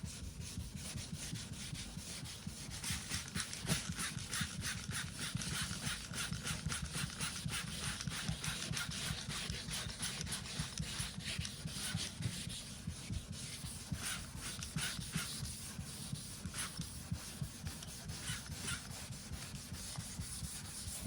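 Abrasive paper being hand-sanded over a car's aluminium body panel in quick, continuous back-and-forth strokes, cutting back a repair edge.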